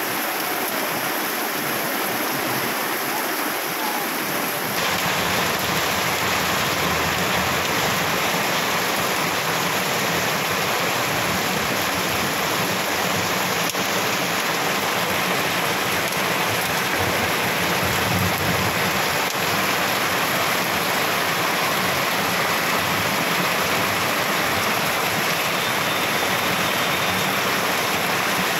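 Heavy rain pouring down on a road and street, a steady dense hiss of a downpour. It gets a little louder and fuller about five seconds in.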